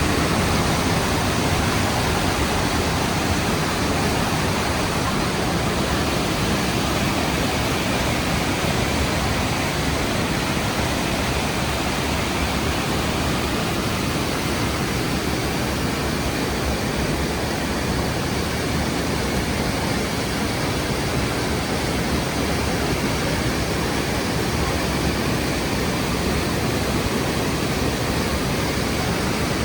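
Rhine Falls waterfall, a steady, even rush of heavy falling water.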